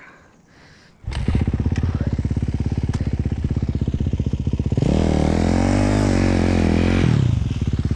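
Dirt bike engine coming in abruptly about a second in and running at a fast, even idle. It is revved up for about two seconds, then settles back to idle.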